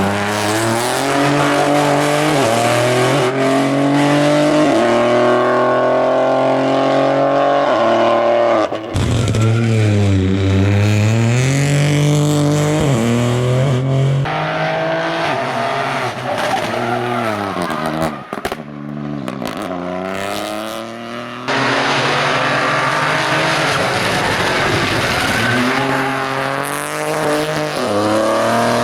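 Rally car engine accelerating hard and lifting off as it passes, its pitch climbing and dropping with each gear change. Several passes follow one another with abrupt cuts between them.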